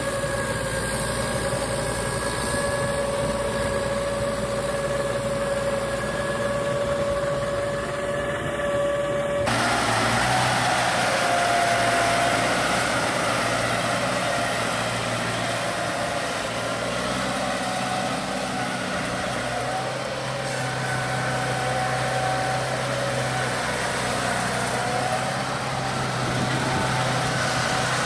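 Walking tractor (power tiller) engines running steadily. About nine seconds in, the sound switches abruptly from one engine's even whine to a lower, rougher engine note.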